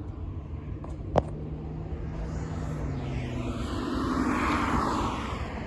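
Jet airliner passing by, its noise swelling to a peak about four to five seconds in, with a low hum that slowly falls in pitch. A sharp click sounds just over a second in.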